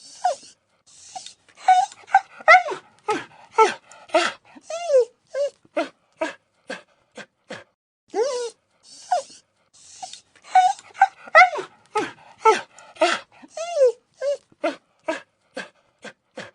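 A dog giving a rapid series of short yelps and whines, many of them falling in pitch, about three calls a second, with a brief pause partway through.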